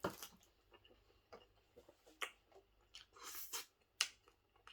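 A person chewing a mouthful of sub sandwich, with scattered faint mouth clicks and smacks and a few sharper ticks.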